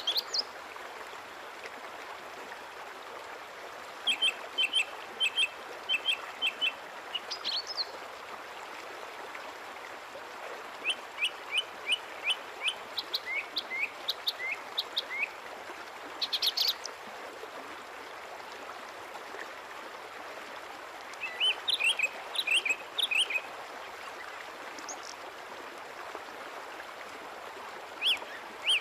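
Small birds chirping in several bouts of quick, repeated short high calls, over a steady background hiss.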